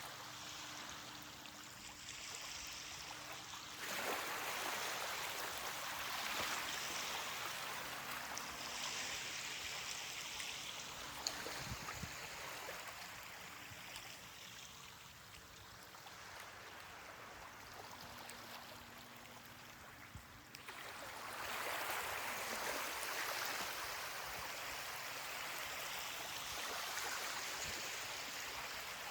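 Ocean waves washing onto a beach: a steady hiss of surf that swells suddenly about four seconds in and again about two-thirds of the way through, easing off in between.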